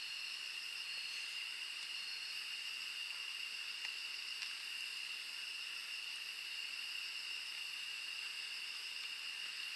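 A steady, high-pitched chorus of insects, several shrill pitches held at once without a break.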